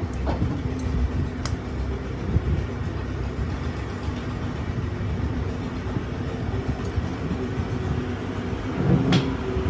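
Steady low mechanical rumble with a faint hum, broken by a few sharp clicks and a louder knock near the end.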